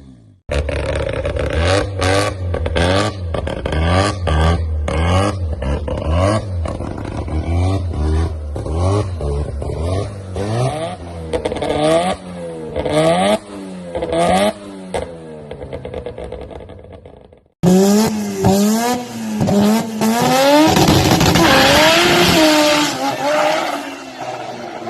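Rotary-engined car revving in quick repeated blips, the pitch swinging up and down, with a choppy brap-brap note. After a sudden cut, a louder rotary engine revs higher and accelerates, its pitch climbing.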